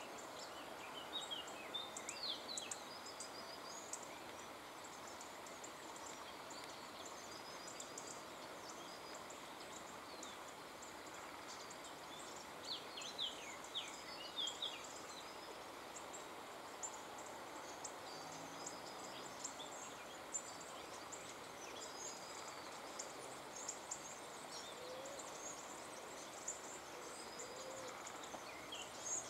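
Small songbirds chirping: scattered short, high twitters come in clusters near the start, again around the middle and near the end, over a steady background hiss.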